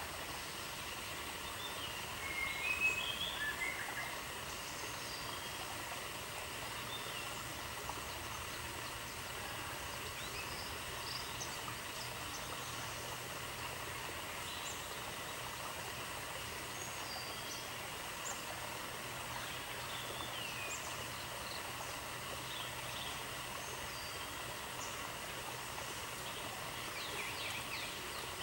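Outdoor natural ambience: a steady hiss with faint scattered bird chirps, a brief louder run of chirps a few seconds in.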